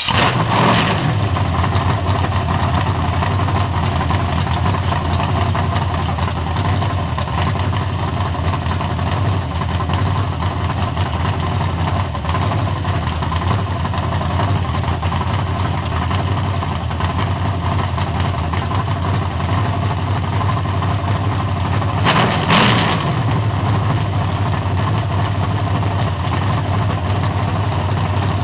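Chevy 355 small-block V8 (a 350 bored .030 over, with an aftermarket cam, flat-top pistons and a Holley dual-plane intake) idling steadily just after starting, with one brief blip of the throttle about three-quarters of the way through.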